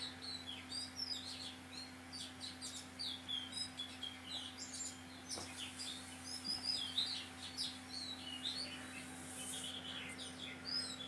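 Birds chirping faintly: many short, quick chirps that come and go throughout, over a steady low hum.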